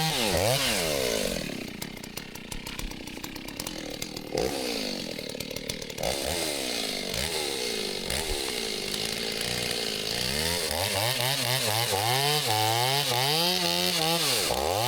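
Two-stroke chainsaw running with its engine speed going up and down. It drops from a high, steady speed about half a second in and runs lower and unevenly, then climbs again and wavers from about ten seconds on.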